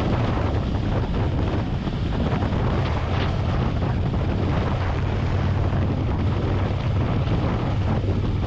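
Harley-Davidson Road Glide's V-twin engine running steadily at highway cruise, under heavy wind rushing over the helmet-mounted microphone.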